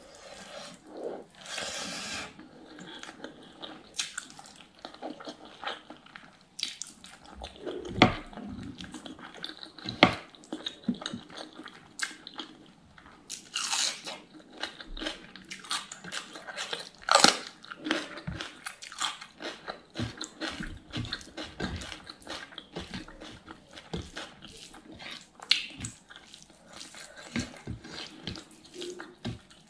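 Close-miked chewing and biting of pork innards curry and rice: wet mouth smacks and many short, irregular clicks, a few sharper ones standing out.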